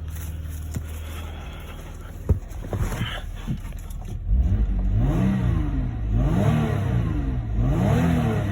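Audi 2.8 V6 engine (code ACK) running, then revved up and let fall back three times in the second half. There is a sharp click shortly before the revving starts.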